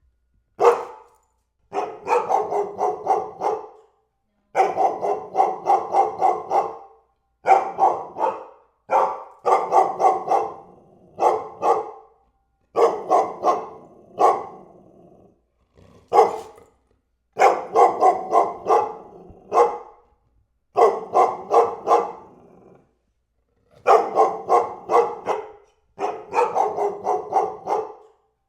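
A dog barking over and over in quick runs of several barks a second, each run broken by a short silence.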